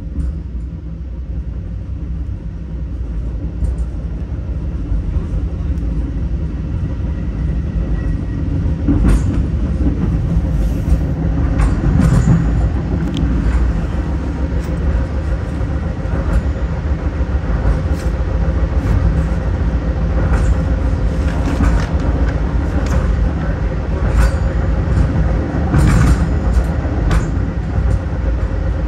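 Metra commuter train heard from inside a passenger car as it runs along the track: a steady low rumble of wheels on rails that grows louder over the first several seconds as the train picks up speed. Sharp clicks and knocks come at irregular intervals from the wheels passing over rail joints and switches.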